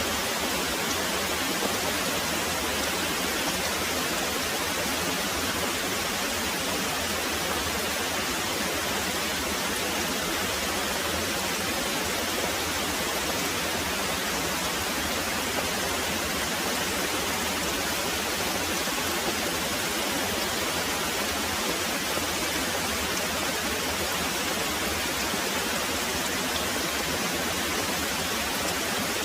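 Very heavy rain pouring steadily, an even hiss with no change in level.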